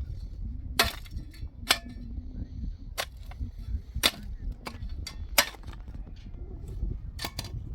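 A series of sharp knocks, about eight of them spaced irregularly a second or so apart, over a steady low rumble.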